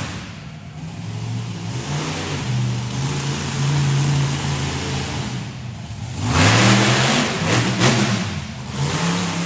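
Monster truck engine revving: a steady note that climbs and dips, then a loud hard rev with a rush of noise about six seconds in, followed by more revs up and down.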